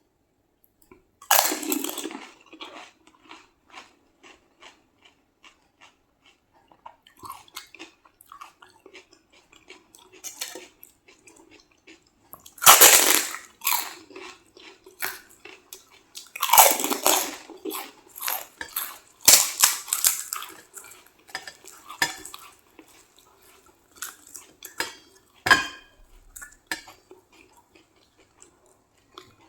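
Crisp panipuri shells being bitten and chewed, with loud crunches in several clusters, and dishes and cutlery clinking between them.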